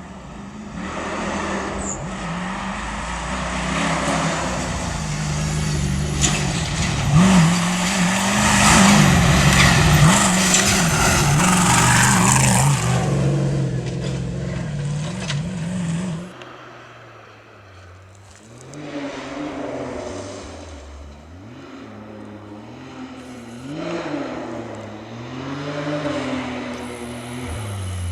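Rally-raid race car engine revving hard as it approaches and passes at speed, loudest around the middle of its run, then cut off abruptly. A fainter engine follows, its revs rising and falling as it grows louder near the end.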